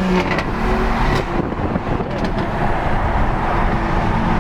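Car engine running steadily with a deep, even rumble, and a few short clicks over it.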